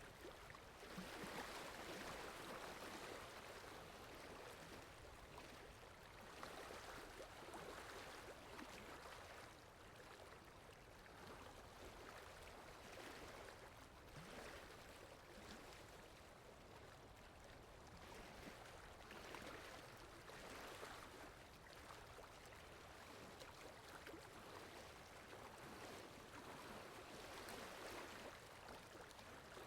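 Faint rain ambience: a soft, even hiss of falling rain that swells and fades every few seconds, with no music audible.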